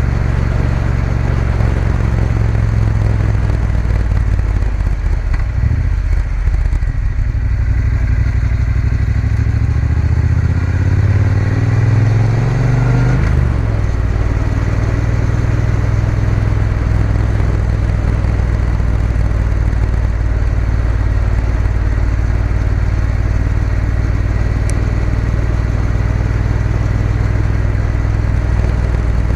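Triumph Bonneville T120's parallel-twin engine running on the move. The revs rise steadily from about nine seconds in, drop sharply at a gear change about thirteen seconds in, then hold steady while cruising.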